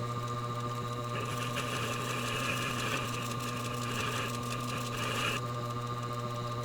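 Tormek sharpening machine's motor running with a steady hum. A higher hiss joins about a second in and stops a little after five seconds.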